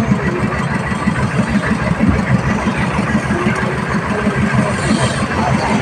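Concrete mixer's engine running steadily with a rapid low beat.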